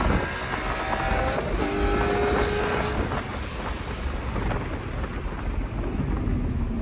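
Mercedes C63 AMG's 6.2-litre V8 with deleted secondary cats and resonators, coming off a hard pull as the revs drop right at the start, holding a steady drone for a second or two, then a low off-throttle rumble with tyre and road noise.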